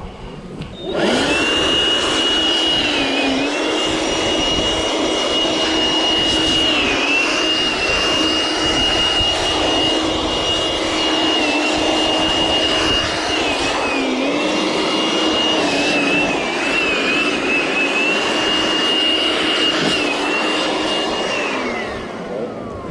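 A small electric motor switched on about a second in, running with a steady high whine whose pitch dips briefly several times as if under load, then winding down with a falling pitch near the end.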